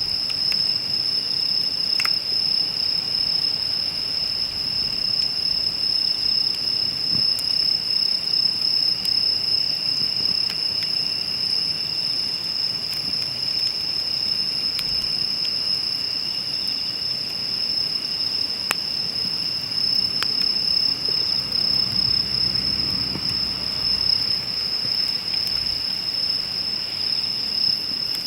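Steady insect chorus, one continuous high trill, with scattered sharp pops and crackles from a wood campfire.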